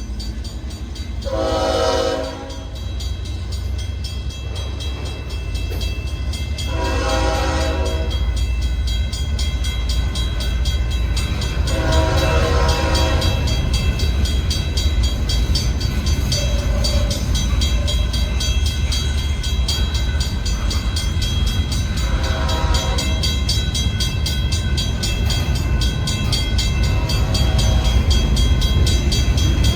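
Diesel locomotive air horn sounding a series of chord-like blasts, mostly long with one short, over the low rumble of the locomotive's engine and the train, which grows slowly louder as the train approaches.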